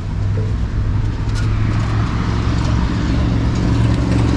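Car interior noise while driving: a steady low engine hum with road and tyre noise, growing slightly louder.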